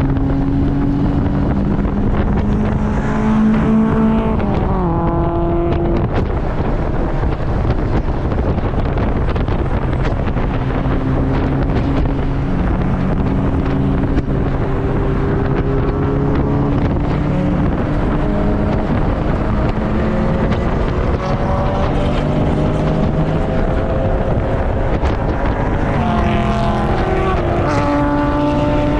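Turbocharged Mazda Miata 1.8-litre four-cylinder engine under hard driving on a race track, heard from inside the open cockpit with wind rush. Its note drops sharply about five seconds in, climbs slowly for a long stretch, then falls again near the end and starts rising.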